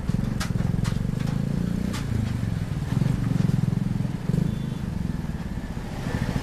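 Suzuki motorcycle engine running at low speed in traffic, with its throttle rising and easing. A few sharp clicks come in the first two seconds.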